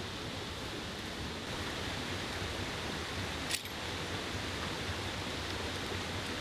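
Mountain stream rushing steadily, with one brief sharp click about three and a half seconds in.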